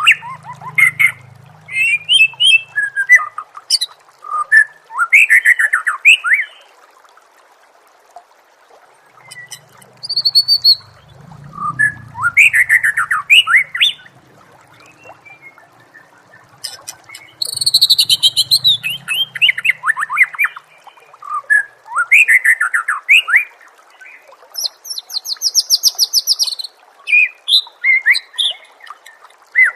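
White-rumped shama (murai batu) singing: loud, varied phrases of quick sweeping whistles, each a second or two long, broken by short pauses, with rapid high trills between some phrases.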